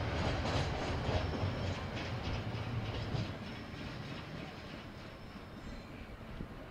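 KiwiRail train rolling past on the line, its wheels clicking over the rails under a low rumble that fades as the train moves away.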